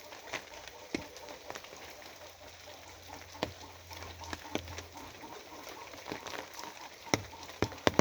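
Steady rain, with heavy drops striking a surface as sharp, irregular taps, a few louder taps near the end.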